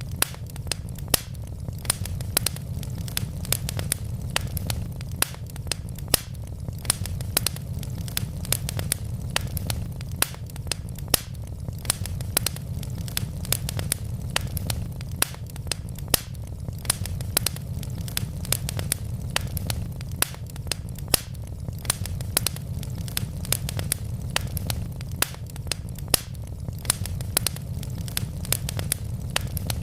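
Wood logs burning with frequent sharp crackles and pops, several a second, over a steady low rumble of the fire.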